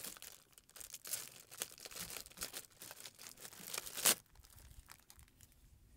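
MRE packaging crinkling and rustling as it is handled, with a sharp click about four seconds in.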